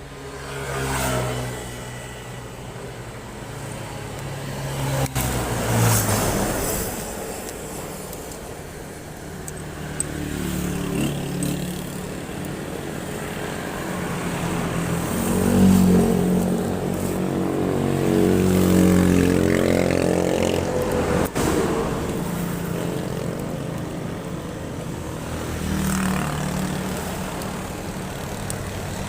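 Motorcycle engine running, its pitch rising and falling as it is revved up and eased off several times, loudest about six seconds in and again around sixteen seconds in.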